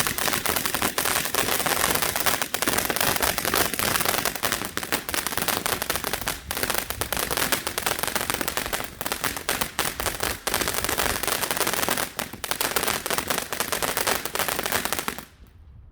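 Garden firework going off in a long, rapid, continuous crackle of sharp bangs, like machine-gun fire, for about fifteen seconds, then stopping abruptly near the end.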